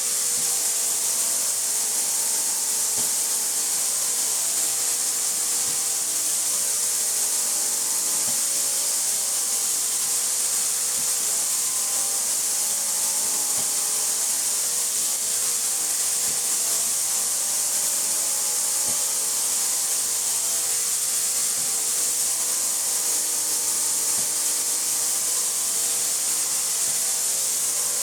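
Industrial ultrasonic parts washer (Ultra 3800 FLT) running its cleaning cycle with ultrasonic and agitation on: a steady, loud high hiss over a hum of several steady tones, with a few faint ticks.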